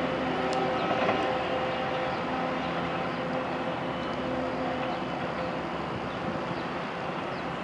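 Long Island Rail Road diesel push-pull train with bilevel coaches pulling away: a steady diesel engine hum over the rumble of the wheels, slowly fading as the train recedes. A couple of light wheel clicks over the switches come in the first second.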